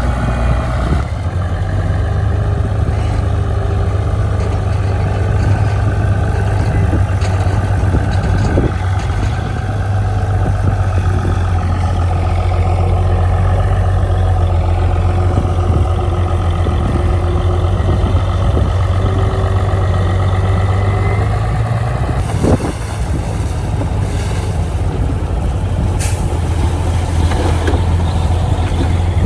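Heavy diesel engine of earthmoving machinery running steadily with a deep, low drone, briefly dipping about three-quarters of the way through.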